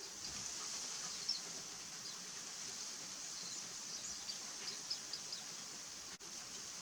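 Short, high chirps and chip notes of small songbirds, scattered irregularly over a steady high-pitched hiss.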